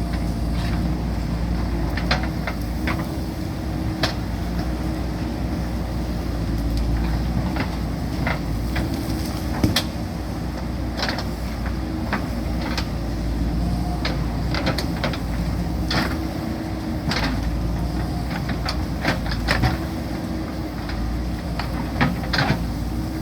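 JCB backhoe loader's diesel engine running steadily under load, with repeated sharp knocks and clatters as the bucket digs into the hillside.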